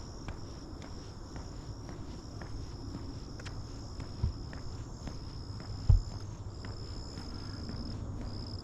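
Crickets trilling steadily, high-pitched, with faint footsteps on a path. Two soft low thumps about four and six seconds in.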